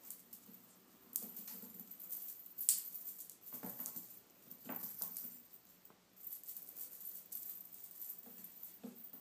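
A house cat moving about, with scattered rustles, light taps and clicks.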